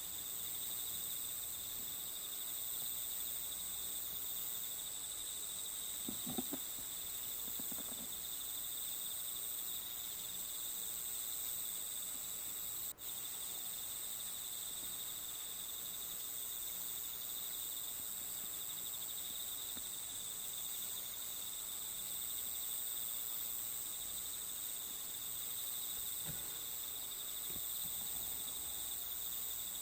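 Steady chorus of chirring insects, a continuous high trill layered at several pitches. A few faint taps sound near 6, 8 and 26 seconds, and the chorus briefly drops out about halfway.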